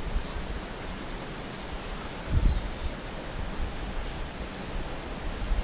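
Steady outdoor hiss with wind rumbling on the microphone, a heavier gust about two seconds in, and a few faint, short, high bird chirps.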